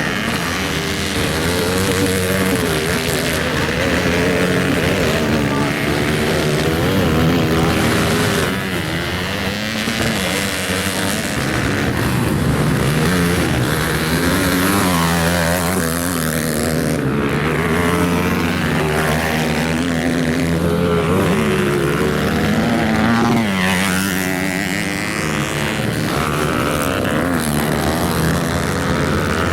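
Several motocross bikes racing on a grass track, their engines revving up and down and overlapping, with pitch rising and falling as riders accelerate and shift.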